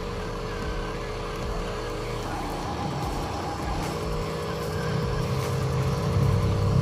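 Radio-controlled model truck's small electric motor and gearbox whining steadily, pausing briefly partway through and then growing louder toward the end.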